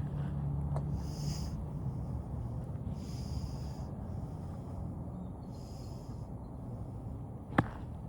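A golf club striking a ball once with a sharp crack near the end, over a steady low rumble with three brief high hisses.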